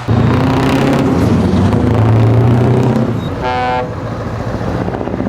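Heavy truck engine running loudly and steadily, with a short horn blast about three and a half seconds in.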